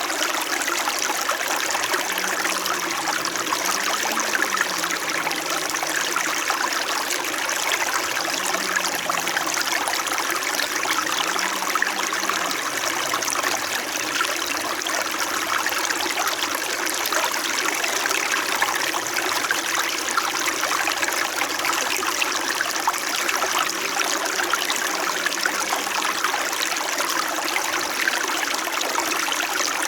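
Small winter mountain stream flowing steadily over rocks: a continuous, even rush and trickle of water.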